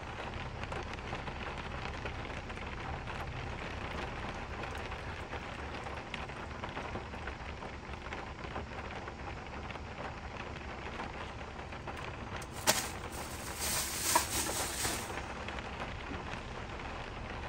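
Steady patter of falling water drops. About 13 seconds in there is a single sharp knock, followed by a short rush of noise lasting about a second and a half.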